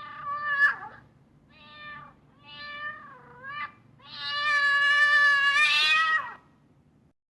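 A domestic cat meowing four times: three shorter meows, then one long, loud meow that ends about six and a half seconds in.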